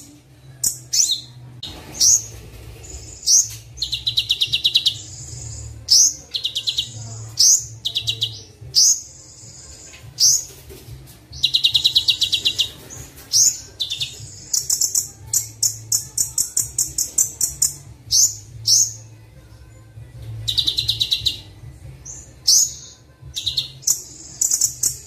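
Recorded songbird song from a Kolibri Wulung (sunbird) training track with other birds' songs mixed in. It comes in bursts of rapid, high-pitched trills and sharp chirps, a second or so apart, over a faint low hum.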